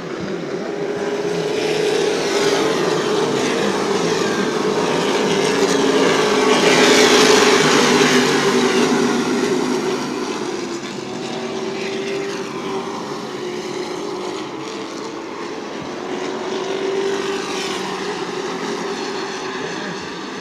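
Super Truck stock-car race engines running at speed around a short oval. The engine sound swells to its loudest about seven seconds in as the trucks pass, fades, and swells again more faintly near the end.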